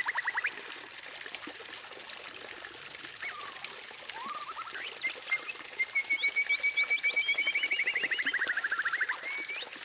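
Songbird song typical of a white-rumped shama tutor recording: quick whistled notes at the start, scattered notes, then from about five seconds in a long, fast trill that holds level for several seconds and dips at its end, with small high chips repeating evenly throughout.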